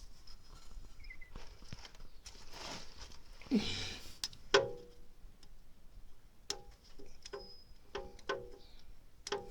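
Light metallic clinks and taps, each ringing briefly, with a scrape a few seconds in: hand tools and metal parts knocking against the oil filter cooling adapter while the old, worn seal is worked at. The taps come quicker in a run near the end.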